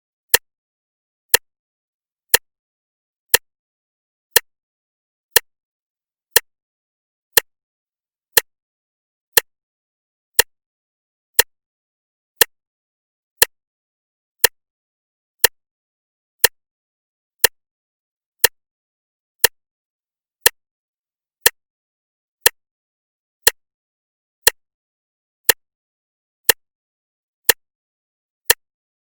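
A clock ticking steadily, one sharp tick a second, with silence between the ticks.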